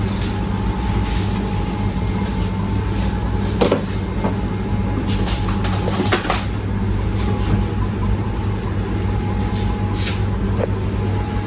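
Steady low hum of commercial kitchen machinery with a thin steady whine above it, broken by a few short knocks and clatters.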